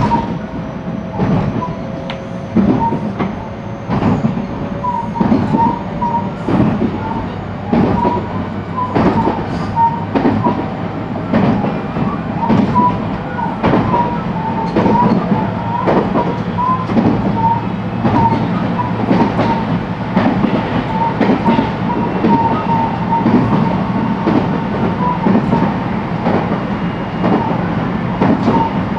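JR West 223-series electric train running at speed, heard from inside the motor car: a steady rumble with the clicks and knocks of rail joints and short high squeaks throughout. A faint motor whine rises slowly over the first few seconds.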